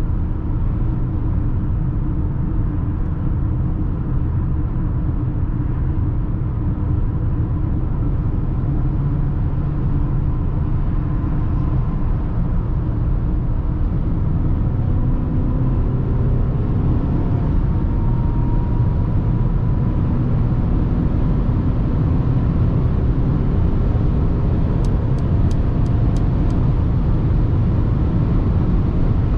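Mercedes GLA 220d 4MATIC cruising on the road, heard from the cabin: a steady low rumble of its four-cylinder diesel engine, tyres and wind, growing slightly louder about halfway through. A short run of faint ticks comes near the end.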